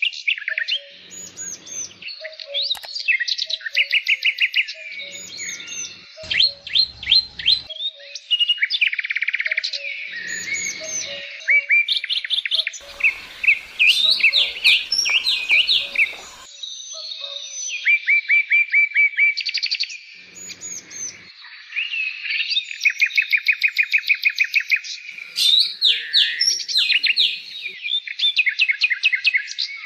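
Greater green leafbird (cucak ijo) singing a loud, continuous, varied song of rapid trills, quick runs of repeated sweeping notes and whistled phrases.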